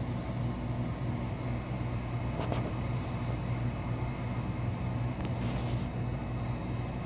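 Steady low mechanical hum, with faint brief sounds about two and a half and five and a half seconds in.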